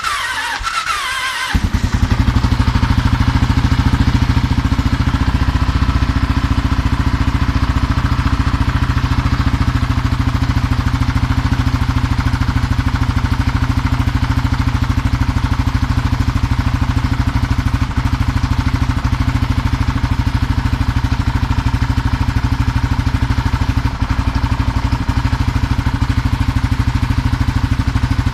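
Kawasaki KLR600 single-cylinder four-stroke engine cold-starting. The starter cranks with a falling whine for about a second and a half, then the engine catches and runs steadily with an even beat.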